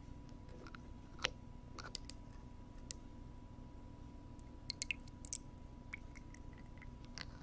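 Close-up scratching and clicking of a wooden ear pick against a binaural microphone's ear, in scattered, irregular strokes, a cluster of them around the middle.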